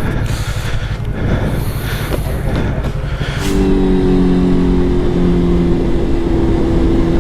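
Motorcycle engine idling with a fast low pulse. About three and a half seconds in, a steady engine drone at nearly constant pitch takes over.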